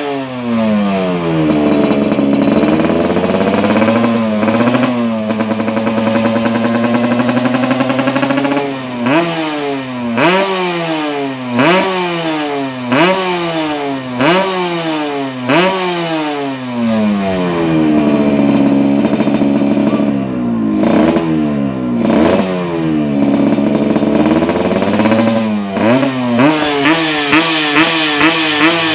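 Yamaha RX King single-cylinder two-stroke engine with a racing expansion-chamber exhaust, being revved. The revs are held high for several seconds, then blipped about once a second, held high again, and near the end blipped quickly about twice a second.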